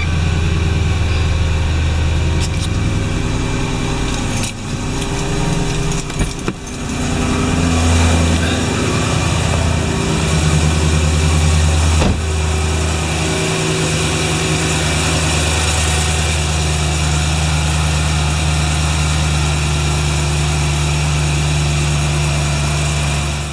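BMW M3's S65 4.0-litre V8 idling steadily just after a start, running on freshly replaced spark plugs. Its idle wavers for a few seconds early on, and there is a single sharp click about halfway through.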